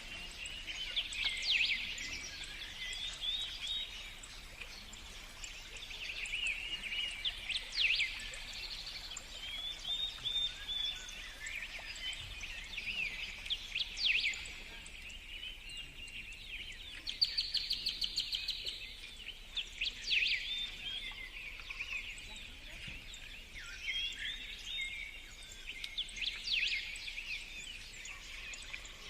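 Songbirds singing: overlapping chirps, whistles and trills, with a fast run of repeated notes about two-thirds of the way through.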